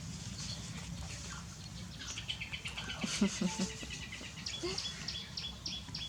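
Birds chirping: a quick high trill, then a steady run of short repeated high notes about two or three a second. A brief low voice comes in just after the middle.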